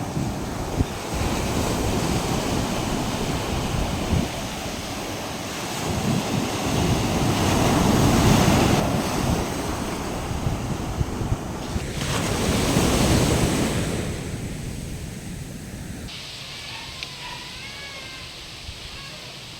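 Typhoon wind blowing hard in gusts, swelling twice and easing off about sixteen seconds in.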